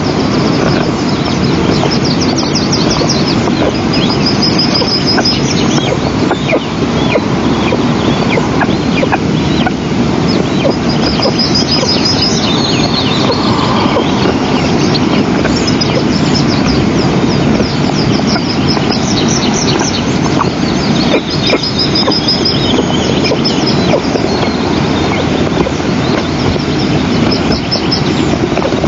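Eastern imperial eagle chicks begging for food: runs of short, high, repeated calls that come in bouts several seconds apart. Under them runs a steady loud rushing noise.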